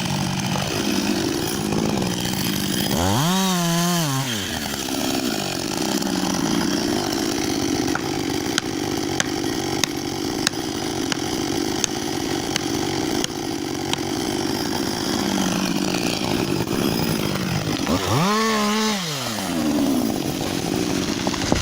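Chainsaw running steadily and cutting wood. Its engine pitch rises and falls twice, about three seconds in and near the end, with scattered sharp ticks in between.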